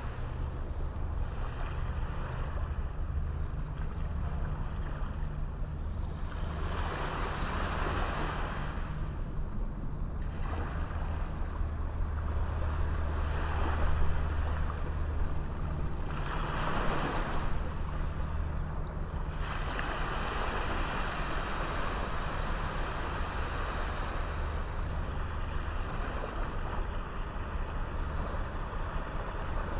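Small waves breaking and washing onto a beach, the surf swelling and ebbing every few seconds over a steady low rumble.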